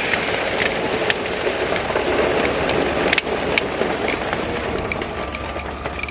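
Steady construction machinery running, with scattered clicks and knocks and one sharper knock about three seconds in.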